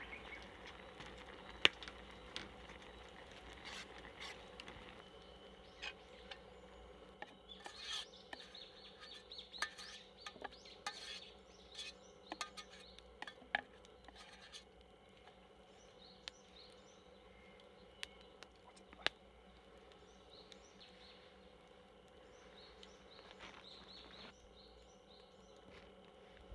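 Quiet outdoor ambience with scattered small clicks and taps, busiest in the middle, and faint bird chirps near the end.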